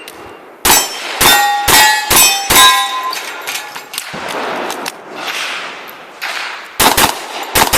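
Handgun shots fired in a quick string of about five, several of them hitting steel targets that ring with a clang after each hit. After a pause of about four seconds, another rapid string of shots comes near the end.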